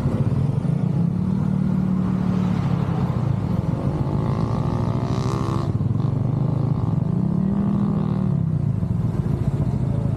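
Motorcycle engine running under way, its pitch rising and falling a few times as the throttle is opened and eased off.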